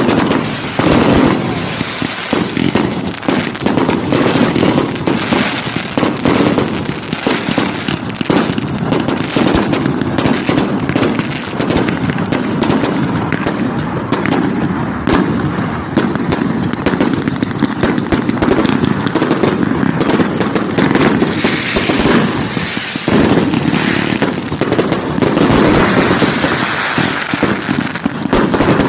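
Bonfire night fireworks going off without a break: a dense, continuous run of bangs and crackling.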